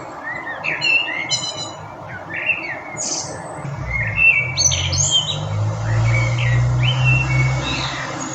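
Wild birds chirping and singing in short, quick phrases, several calls overlapping. A low steady rumble joins about halfway through and fades near the end.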